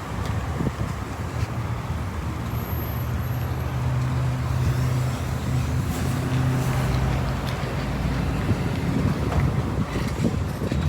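A motor vehicle's engine running with a steady low hum, strongest in the middle, over traffic noise.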